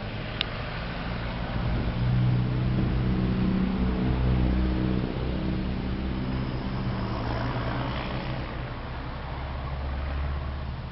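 Mazda 3 2.0-litre four-cylinder petrol engine running; it gets louder about two seconds in, as if the revs are raised, and settles back after about five seconds. A short click sounds near the start.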